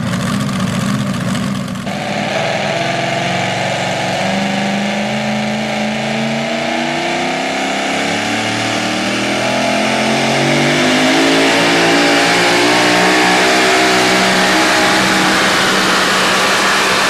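Super modified four-wheel-drive pulling truck's engine at full throttle under load, its pitch climbing slowly and steadily as it pulls the sled, getting louder from about ten seconds in.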